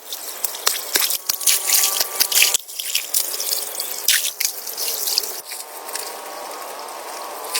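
Water trickling and dripping, with many small clicks and knocks.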